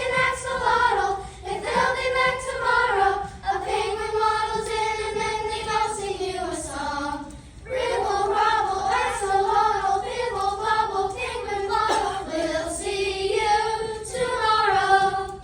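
A choir of children's voices singing a song together, with a short break for breath about seven and a half seconds in.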